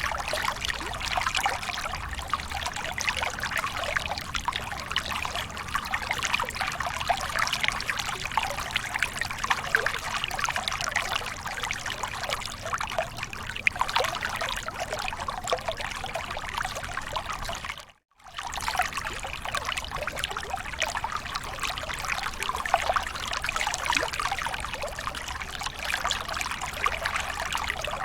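Waterfall water splashing and pouring steadily, cut by a brief gap of silence about two-thirds of the way through.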